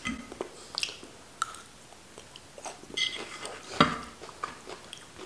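Close-miked chewing of steamed green beans, with small clicks of a fork against the plate and one louder clack about four seconds in as the fork is set down on the plate.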